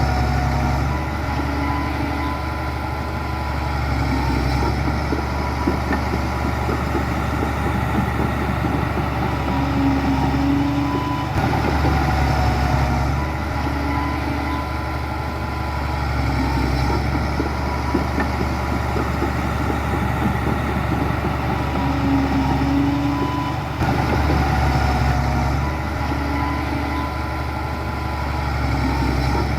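Diesel engines of heavy construction machinery (bulldozers and dump trucks) running steadily, with a low drone that carries on throughout.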